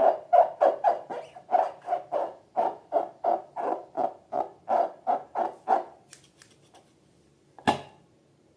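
Slime being squeezed and worked by hand, giving a regular run of short squelchy pops, about three a second, that stops about six seconds in. A single sharp click follows near the end.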